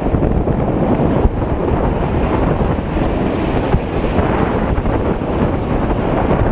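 A car driving through floodwater: a steady, loud wash of water rushing and spraying against the underside and wheel arches, heard from inside the cabin.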